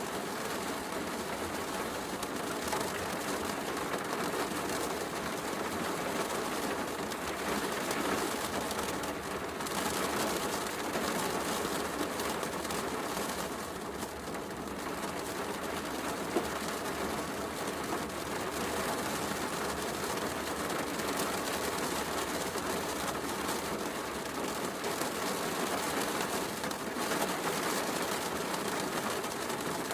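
Heavy rain falling steadily, with a wood fire crackling in a fireplace; one louder pop about sixteen seconds in.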